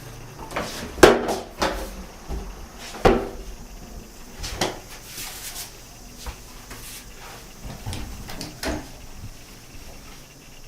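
Cupboard doors or drawers being opened and shut: a series of separate knocks and clunks, the loudest about a second in and about three seconds in.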